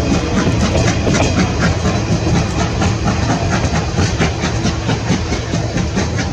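Moka Railway steam train running, with a fast, even clatter of short clicks over a steady rumble and hiss.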